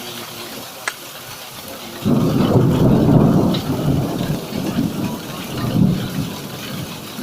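Thunder in a hailstorm: a loud rolling rumble breaks in about two seconds in and swells and fades over the steady hiss of falling rain and hail.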